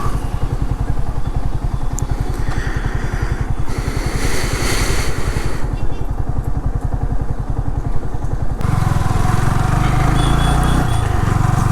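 Motorcycle engine idling with an even beat, then revving up as the bike pulls away about eight and a half seconds in.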